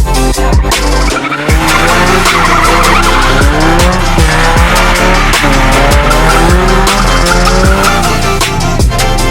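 Tires squealing in long, wavering tones as a 2005 Ford Ranger with a welded rear differential slides. Electronic music with a heavy, steady beat plays over it.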